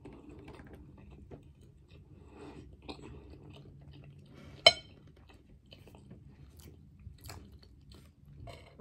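Chewing a mouthful of white chocolate chip pancake, with small scattered mouth clicks. Partway through, a metal fork strikes the ceramic plate once with a sharp ringing clink.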